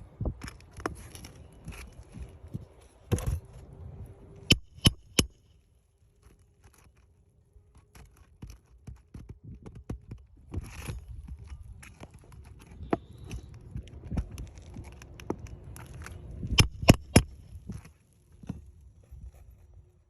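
Hand tools scraping and knocking on asphalt roof shingles, the work of freeing the shingle nails. Sharp metallic taps stand out: one about three seconds in, a quick run of three a little later, and three more near the end.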